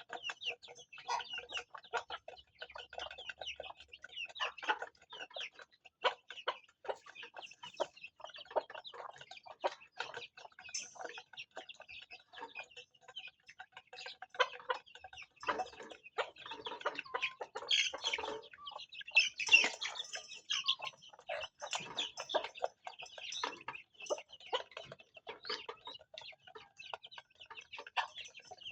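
Farm chickens and chicks clucking and calling, with many short ticks mixed in throughout.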